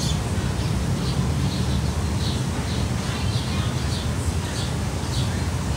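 Small birds chirping, short chirps a couple of times a second, over a steady low rumble.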